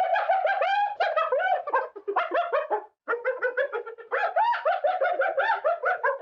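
Rapid, repeated chirping calls from an animal, many short rising-and-falling chirps a second, in two runs with a brief pause about three seconds in.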